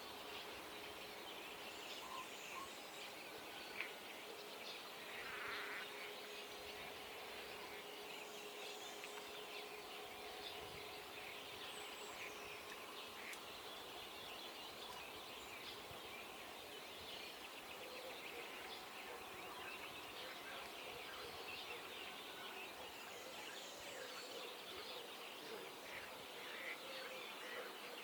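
Faint dawn chorus: many distant birds chirping and calling in a dense, steady wash, with a faint steady hum during the first half.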